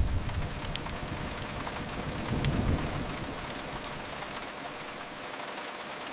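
Steady rain hiss with a few sharp crackles from a wood fire scattered through it; a low rumble under the rain eases away over the first few seconds.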